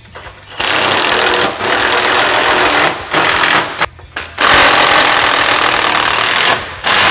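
Impact wrench hammering in five bursts of about one to two seconds each, with short pauses between, as it runs nuts down onto bolts and tightens them.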